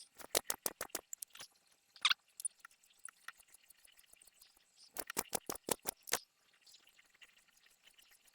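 Hand brace boring a hole through a wooden blank by hand: three bursts of quick, sharp clicks, about seven a second, with faint ticking between.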